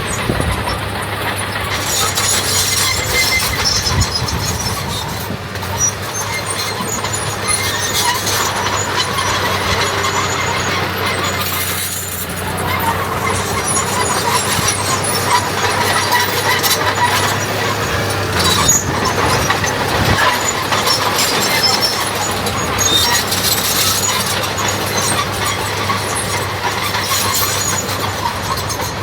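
Heavy earthmoving machinery at work: a diesel engine running steadily, with squealing mixed in.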